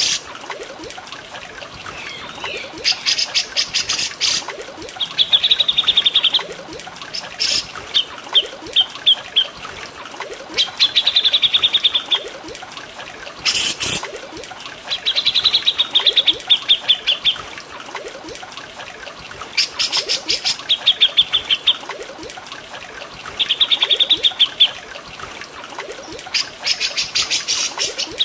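Cucak jenggot and cililin songbirds singing in repeated short bouts: fast rattling trills alternating with sharp chattering notes, a new phrase every second or two. A steady trickle of running water sounds underneath.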